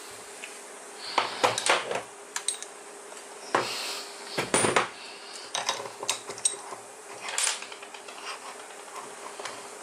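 Metal tools and motor parts clinking and clattering on a work surface in a run of irregular knocks and clicks, with a faint steady hum underneath.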